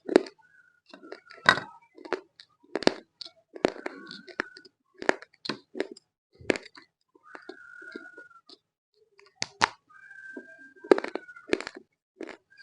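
Close-up biting and chewing of roasted multani mitti (fuller's earth clay): sharp, irregular crunches about once a second, with a few short squeaking sounds in between.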